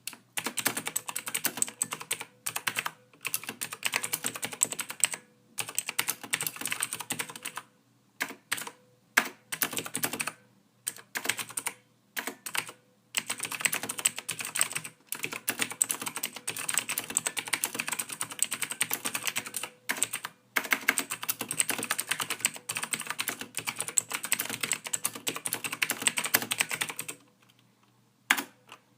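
Typing on a computer keyboard: quick runs of key clicks broken by short pauses every few seconds, starting suddenly after silence.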